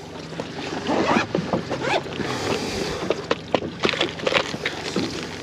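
Water slapping against a small fiberglass boat's hull, with scattered knocks and clicks as fishing gear is handled for a new rig.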